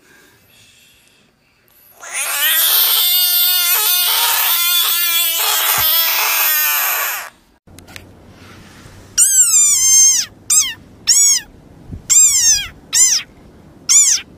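A Budgett's frog gives one long, loud, wavering defensive scream lasting about five seconds. After a short pause, a desert rain frog makes a run of short, high squeaks, each rising and then falling in pitch.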